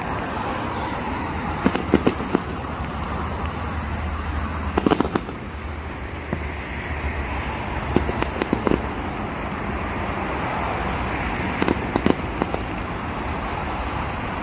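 Fireworks display: aerial shells going off in clusters of sharp bangs and crackles, four bursts roughly three seconds apart, over a steady background rumble.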